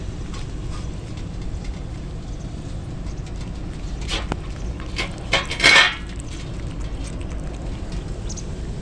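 A short run of clicks and a rattling clatter a little past the middle, loudest near the end of the run, over a steady low background noise.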